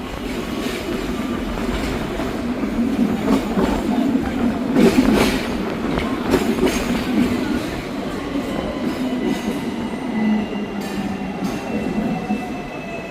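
Hong Kong double-decker tram running on its street track: a steady rumble with a run of clicks and knocks around the middle, and a faint whine that slowly falls in pitch in the second half.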